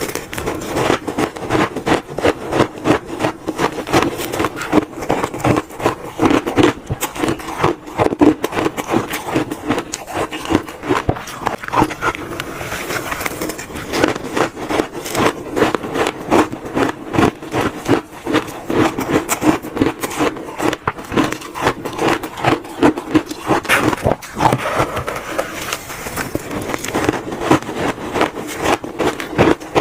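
Close-miked crunching of shaved ice being bitten and chewed: a rapid, continuous run of crisp cracks and crackles.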